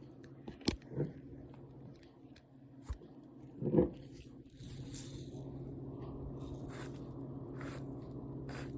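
Pepper being added to popcorn: a few light clicks and a knock, then a steady rasping from about four and a half seconds in.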